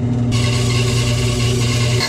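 Electric woodworking power tool running on maple, a steady motor hum with cutting or abrading hiss that rises sharply about a third of a second in.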